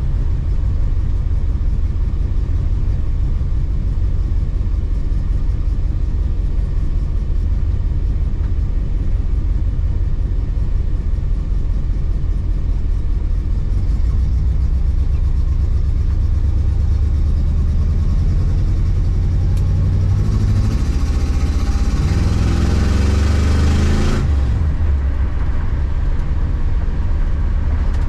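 1972 Oldsmobile Cutlass's 350 Olds V8 running steadily while driving, with road noise. About twenty seconds in the engine speeds up, rising in pitch for about four seconds, then drops back suddenly.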